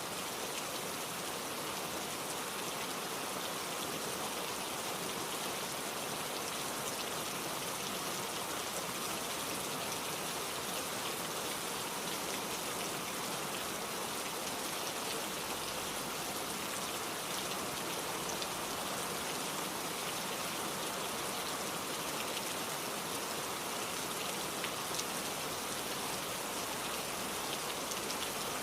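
Steady rain falling, an even hiss with many fine drops pattering on a surface.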